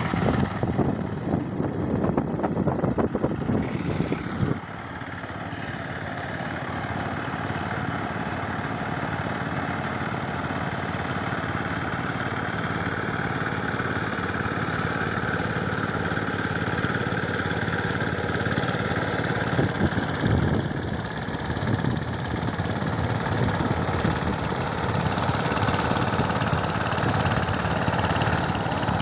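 Power tiller's single-cylinder diesel engine running with a rapid, even chug, louder for the first few seconds, then settling to a steadier, slightly quieter run, with a brief louder surge near the middle.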